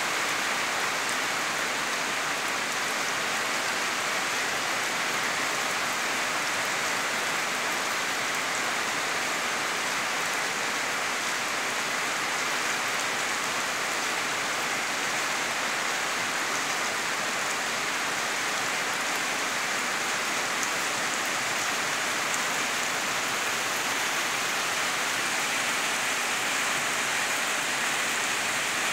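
Rain falling steadily on foliage and wet ground: an even, unbroken hiss.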